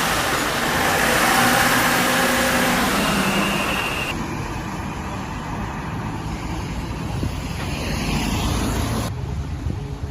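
A vehicle engine running outdoors amid wind and rain noise. The sound changes abruptly about four seconds in and again near the end.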